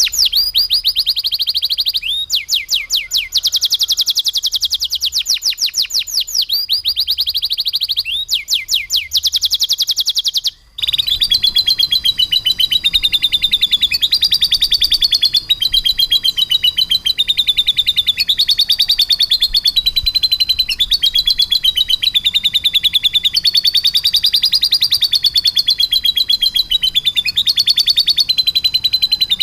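Canary singing long, very rapid rolling trills at a high pitch, its song carrying lovebird-style phrases; the trill steps up and down in pitch every second or two. The song breaks off briefly about ten and a half seconds in, then carries straight on.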